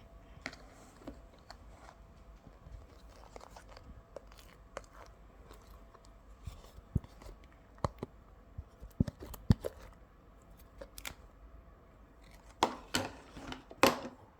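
Slime full of trapped air bubbles being handled, giving scattered sharp clicks and pops, with a louder, denser run of crackling about thirteen seconds in.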